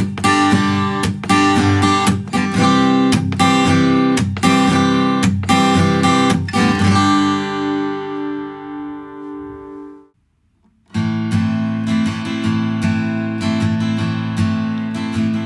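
Taylor 324ce steel-string acoustic guitar strummed in a steady rhythm; the last chord rings out and fades about seven seconds in, there is a short silence, and then strumming starts again.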